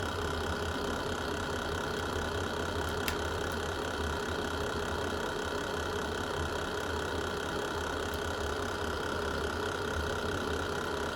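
Fireplace fire burning with a steady low rumble and roar, broken by a single sharp crackle about three seconds in and a fainter one later.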